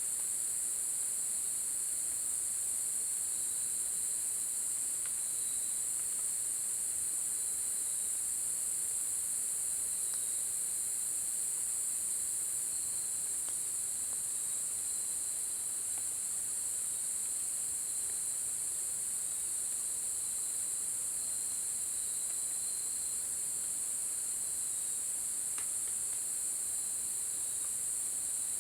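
A steady chorus of insects such as crickets trilling high and unbroken, with a second, lower insect tone wavering beneath it. A few faint ticks stand out here and there.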